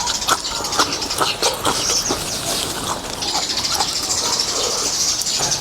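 Close-up eating sounds of noodles in beef soup, with irregular wet smacks and clicks several times a second. Behind them is a steady high-pitched chirring chorus from birds or insects outdoors.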